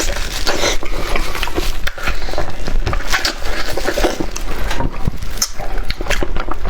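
Close-miked wet chewing, lip smacking and sucking on spicy meat, a dense irregular run of sticky clicks and smacks.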